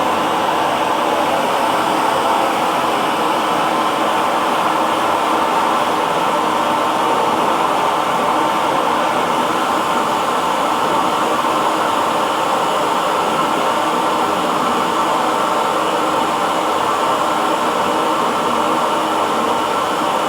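Hair dryer running steadily: an even, unbroken blowing hum with a faint steady whine in it.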